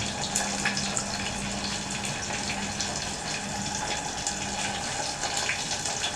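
Convection microwave running on grill mode, a steady hiss with a low hum, and light crackling ticks from sardines grilling on the rack.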